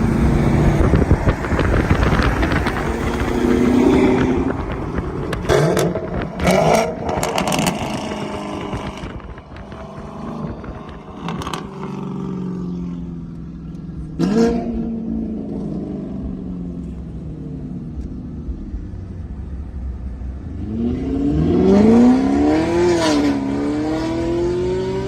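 Chevrolet Camaro 2SS's 6.2-litre V8, fitted with headers and an MBRP cat-back exhaust, accelerating and revving: the exhaust note climbs sharply in pitch about six seconds in, again near the middle and again near the end, falling away in between.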